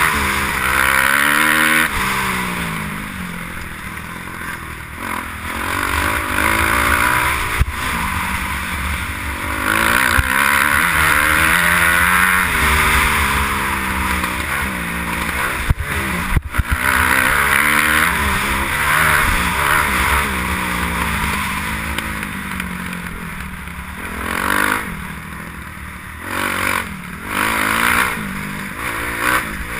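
Kawasaki KX250F motocross bike's single-cylinder four-stroke engine at speed, its pitch climbing and dropping again and again as the rider works the throttle and gears, with wind rushing over the helmet-mounted microphone. Near the end the engine comes in short, choppier blips of throttle with some rattling.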